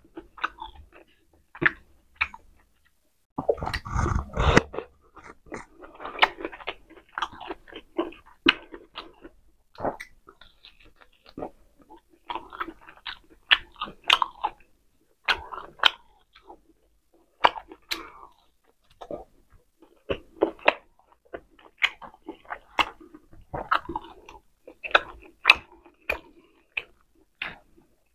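Close-miked chewing of pork steak and rice eaten by hand: many small wet mouth clicks and lip smacks, on and off throughout. A louder, denser burst of sound comes around four seconds in.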